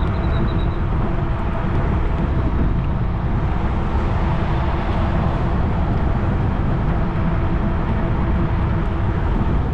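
Steady wind rumble on the microphone and tyre noise from a 20-inch fat-tire electric bike rolling along a trail at riding speed, with a faint steady hum underneath.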